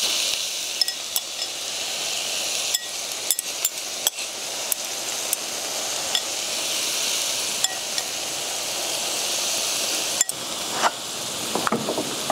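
Green onion salad and thin-sliced beef brisket sizzling steadily on a hot stone grill plate. A metal utensil clicks sharply against the stone now and then as the food is tossed.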